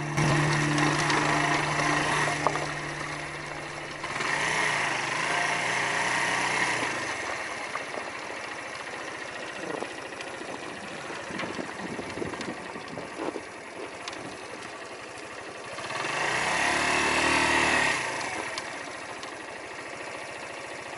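Suzuki cruiser motorcycle engine running as the bike climbs a dirt trail, the engine note rising twice, about four seconds in and again near the end.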